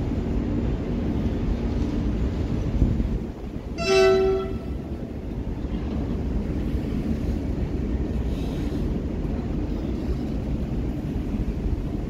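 Covered goods wagons of a freight train rolling past on the rails with a steady heavy rumble and wheel clatter. About four seconds in, a short horn toot sounds once.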